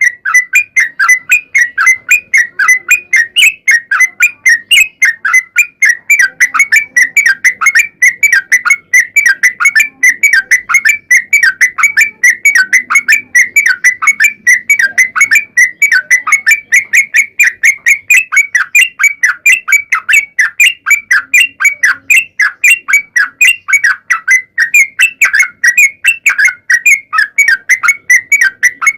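Yellow-vented bulbul (trucukan) singing a long, unbroken song of rapid chattering notes, several a second.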